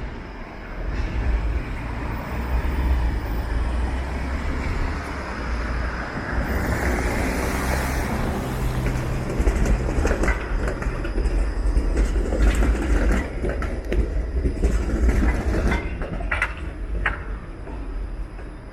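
A streetcar running past on the street: a loud, steady low rumble, with a string of sharp clacks and knocks from the wheels and track in the second half.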